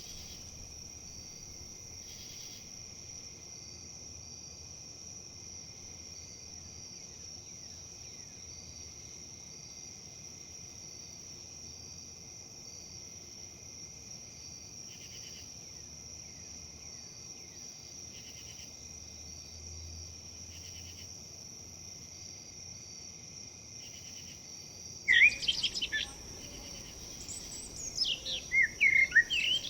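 Insects, crickets or similar, keep up a steady high-pitched drone. About 25 seconds in, a bird starts calling close by with loud, quick chirps and trills that sweep up and down in pitch.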